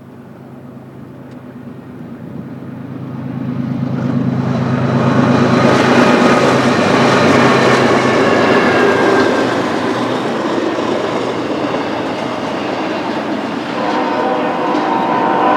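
BNSF freight train's diesel locomotives approaching, growing steadily louder over the first five seconds, then the train passing close at full volume with steel wheels rolling on rail and high ringing tones coming and going.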